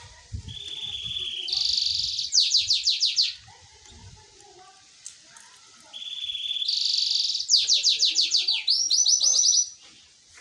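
Canary singing two song phrases. Each phrase starts with a steady low trill, steps up to a higher fast trill, then runs into a series of quick falling notes. The second phrase ends with a few rising notes.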